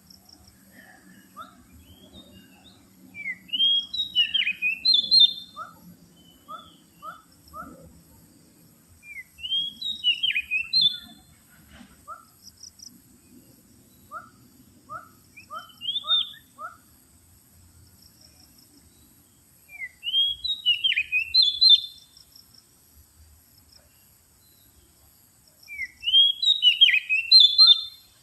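Oriental magpie-robin (kacer) singing, a lure call for drawing wild males: loud bursts of quick, sweeping whistled notes every several seconds, with quieter runs of about four lower whistled notes between the bursts.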